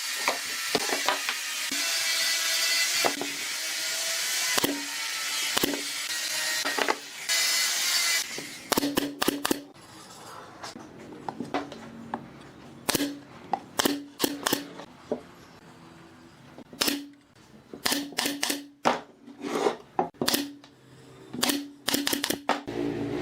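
Woodworking shop tools on wood: a steady rasping, sanding-like noise for about the first eight seconds, then a run of sharp, irregular clicks and knocks.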